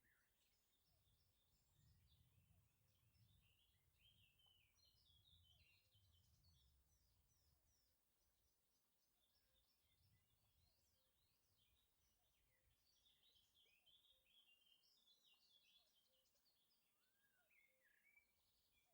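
Very faint birdsong: many quick chirps and short trills that keep going, over a faint low rumble that fades out about halfway through.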